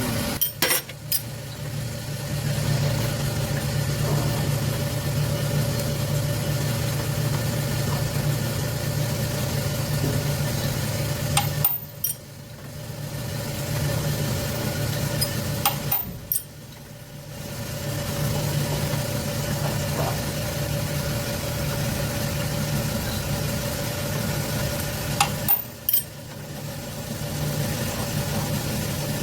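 Twin-head boring machine running with a steady mechanical hum while boring engine bushes. Three or four times it drops away briefly with sharp clicks, then builds back up over a second or two.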